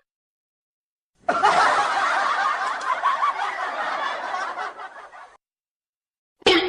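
Laughter from several voices, about four seconds long, starting about a second in and cutting off abruptly.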